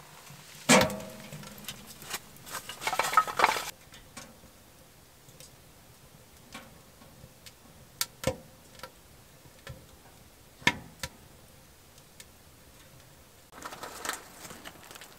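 A sharp metal clank that rings briefly, then a second or so of metal clattering and scraping. After that come a few scattered sharp pops and clicks of a wood fire crackling.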